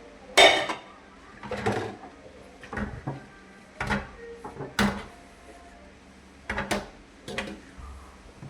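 Irregular knocks and clatters of kitchen things being handled, about eight over several seconds; the first, about half a second in, is the loudest and rings briefly.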